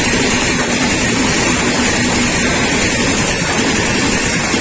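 Passenger coaches of an electric-hauled Indian Railways express passing close by at speed: a loud, steady rolling noise of wheels on rail.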